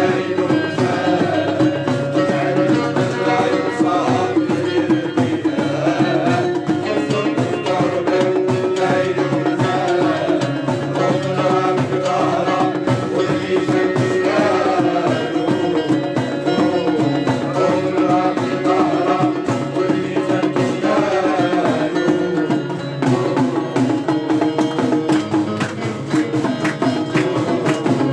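Traditional North African folk music played live, with hand drums keeping a steady rhythm under a wavering melody.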